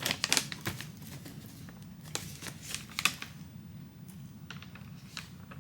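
Crunching and chewing of a caramel pretzel cluster close to the microphone, a run of sharp crackly clicks in the first few seconds that thins out toward the end.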